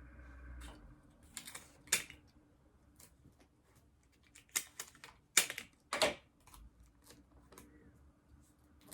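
Paper craft pieces and tape being handled: an irregular run of small clicks and taps, with a few longer rustles.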